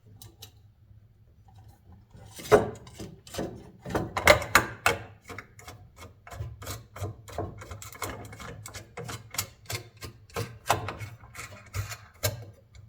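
Small metal clicks, taps and scrapes as nuts are fitted onto screws in a fan motor's bushing housing and tightened with a nut driver, coming irregularly a few times a second after a quiet start.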